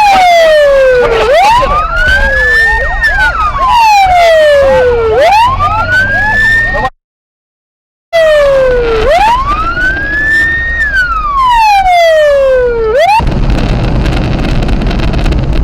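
Police car siren wailing, each cycle rising in pitch, then sliding slowly back down, about every four seconds. The sound cuts out completely for about a second near the middle, and the siren stops about two seconds before the end, leaving the rumble of a moving vehicle.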